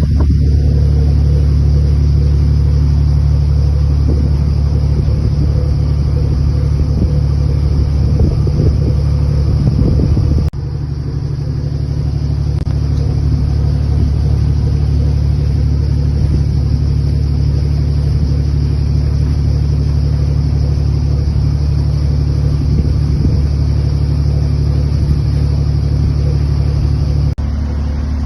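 Boat engine running with a steady low drone, heard on board. The sound drops a little in level twice, about ten seconds in and near the end, where the recording is cut.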